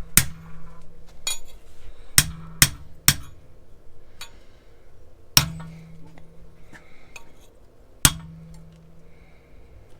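About six sharp hammer blows on metal exhaust tubing, irregularly spaced, several leaving a short low ring, with a few lighter clinks between, as the pipes are knocked into place for the 2-into-1 joint.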